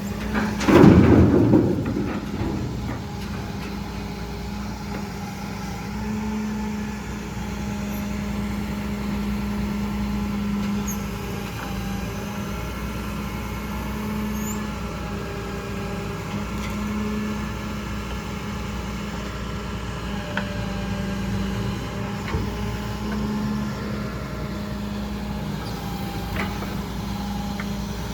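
Heavy diesel refuse truck running steadily, with a loud burst of noise about a second in.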